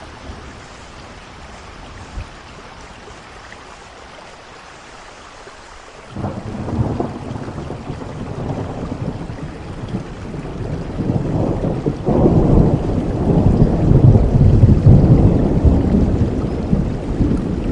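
Steady rain falling, then about six seconds in a deep thunder rumble sets in and builds, growing louder in the second half and rolling on over the rain.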